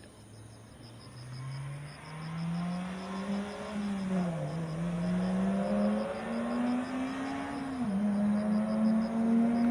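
Honda Civic Type R FD2's K20A four-cylinder engine through an aftermarket exhaust, accelerating hard and getting louder. The pitch climbs, dips briefly at an upshift about four and a half seconds in, climbs again and dips at a second upshift near eight seconds. Crickets chirp faintly behind it.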